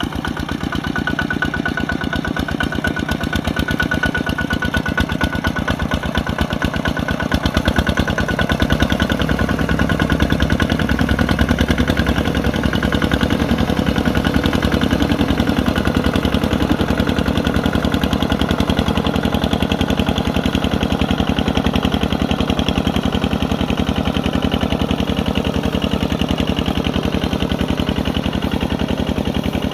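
Kubota RT140 walking tractor's single-cylinder diesel engine running steadily with a rapid, even chugging that grows a little louder about eight to ten seconds in. A thin high whine rides over it at first and fades out.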